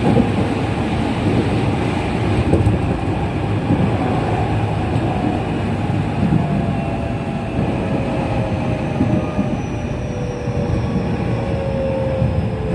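Inside a JR West 207 series electric train running, with a steady rumble of wheels on rail. From about ten seconds in, the unmodified traction motors' whine sounds as several tones falling in pitch, as the train slows.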